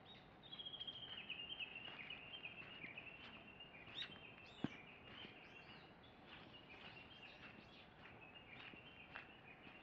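Faint birdsong over quiet outdoor hiss: a long run of rapid high chirping notes that drifts slightly lower in pitch, with scattered single chirps. One sharp click a little before halfway.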